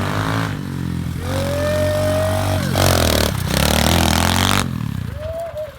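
SSR 125 pit bike's single-cylinder engine running steadily. A long held high tone rises and falls a little over a second in, and a loud rushing noise joins from about three to four and a half seconds, after which the engine sound drops away.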